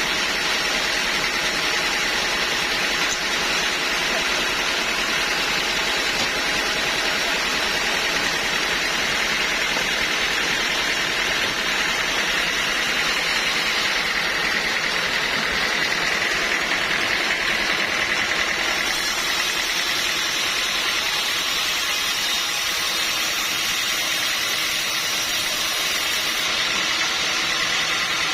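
Sawmill machinery running with a steady, even mechanical noise and no breaks or strikes.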